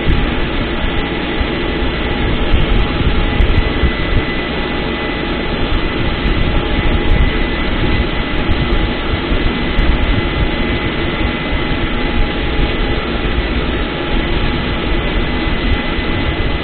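MTZ-892 tractor's four-cylinder diesel engine running steadily while pulling a seed drill, with a thin steady high whine over the engine noise.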